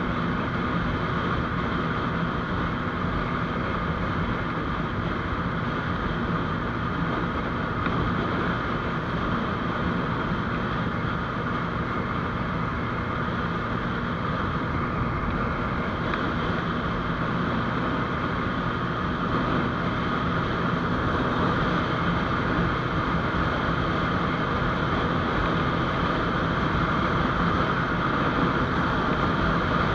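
GPX Demon GR200R motorcycle engine running at a steady cruising speed, with wind noise on the microphone.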